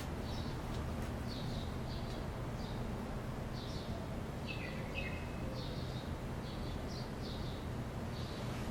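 Small birds chirping: many short, high chirps in quick succession, with a couple of short falling notes about halfway through, over a steady low background rumble.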